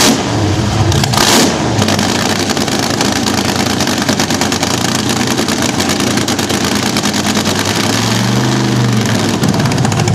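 Nitro-burning vintage slingshot dragster engines running at open headers, very loud with a rapid firing rattle; the throttle is blipped hard about a second in, then the engines run on steadily.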